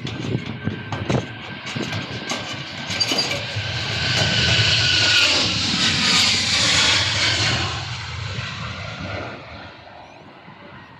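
An aircraft passing. Its engine noise swells to a peak about halfway through and then fades, with a whine that drops slightly in pitch as it goes by.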